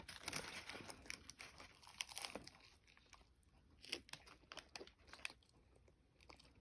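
Faint crunching as a hard-shell crunchy taco is bitten and chewed, in scattered short crunches, the loudest about four seconds in.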